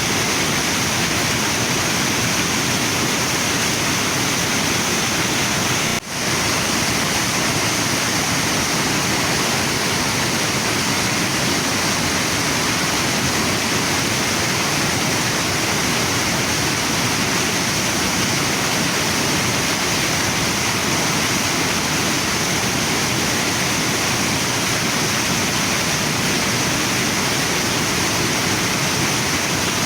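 Waterfall and river water rushing steadily, a dense, even roar across the whole range. Its level dips for a moment about six seconds in.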